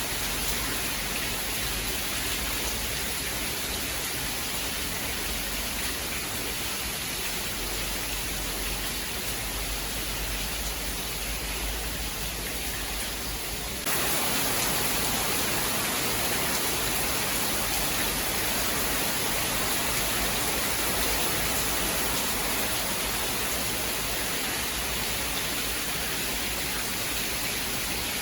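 Steady rain, an even hiss with no thunder. About halfway through it abruptly turns louder and brighter.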